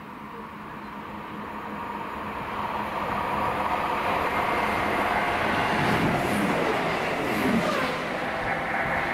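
Chiltern Railways diesel multiple unit approaching and passing, its engine and wheel rumble growing steadily louder, with a falling engine note and two brief high squeals around the middle.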